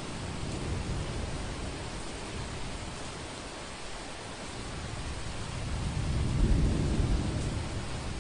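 Steady heavy rain hissing, with a deep rumble of thunder that builds and is loudest about six seconds in, then fades.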